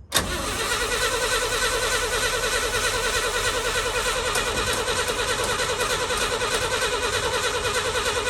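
1966 International Harvester BG 241 inline-six being cranked over by its starter motor, a steady rhythmic churning that starts suddenly and keeps an even pace without the engine catching.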